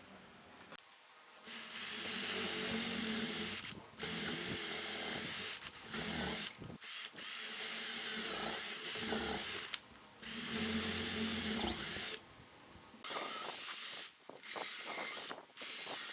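Electric power drill running in a series of short bursts, each lasting one to three seconds, with brief pauses between them.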